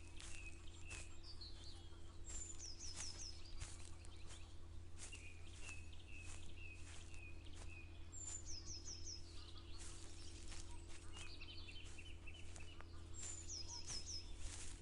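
Birds singing outdoors. One bird repeats a short high phrase, a sliding note followed by four quick notes, three times about five seconds apart. Other birds give runs of lower, evenly spaced chirps. Soft footsteps of someone walking run underneath.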